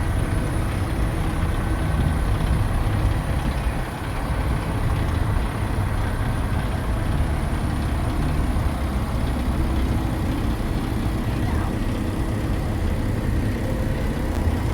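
Steady low rumble of a truck engine idling, holding an even level throughout.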